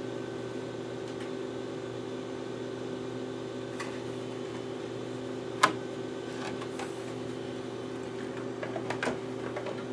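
Steady machine hum, with one sharp click a little past halfway and a few light knocks near the end as the RC car's body is handled and fitted.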